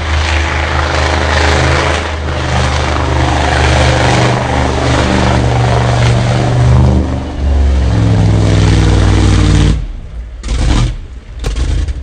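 Mega truck engine running hard at high revs, loud and steady with a few shifts in pitch, then dropping off abruptly about ten seconds in.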